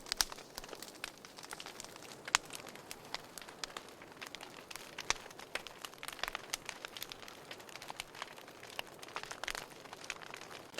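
Wood fire crackling in a fireplace: a steady faint hiss with many irregular sharp pops and snaps, the loudest about two seconds in.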